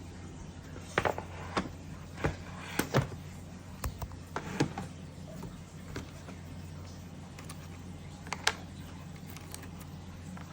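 Irregular light clicks and knocks, about a dozen, mostly in the first half with a quick pair later, over a steady low hum.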